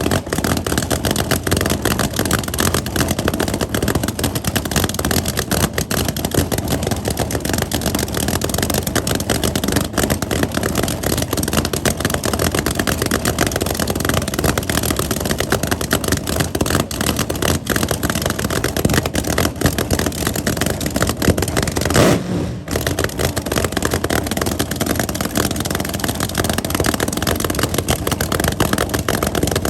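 Car engines running and revving, a loud continuous mechanical noise, with a brief break about three quarters of the way through.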